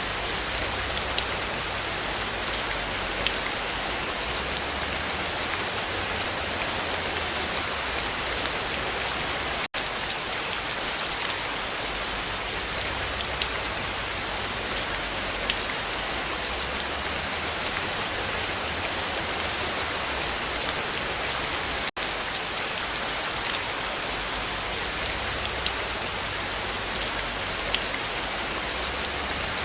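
Heavy rain falling steadily: a dense, even hiss of drops with many crisp individual drip ticks. The sound cuts out for an instant twice, about 10 and 22 seconds in.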